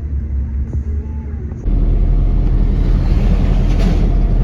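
Steady low rumble of a moving vehicle. About one and a half seconds in it jumps abruptly to a louder, rougher rumble with a hiss over it.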